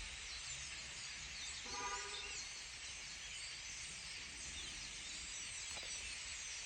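Many birds chirping and twittering together in a steady dense chorus. About two seconds in there is a short, lower-pitched call with several tones.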